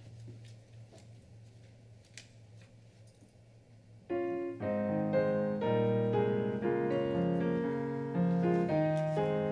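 A piano starts playing about four seconds in, with sustained chords and a melody; before that there is only quiet room tone with a few faint clicks.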